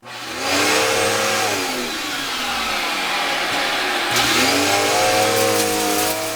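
A Eureka vacuum cleaner switched on: its motor starts abruptly and runs loudly with a whining pitch that sags and then climbs again about four seconds in before holding steady.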